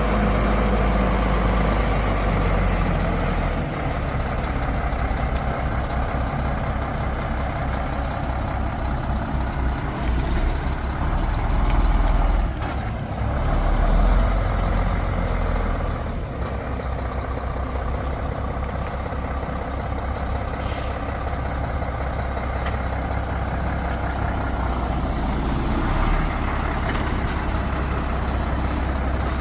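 2000 Mack RD688S truck's diesel engine running steadily with a deep drone, getting louder twice briefly near the middle. A few short hisses, like air being released, come through over it.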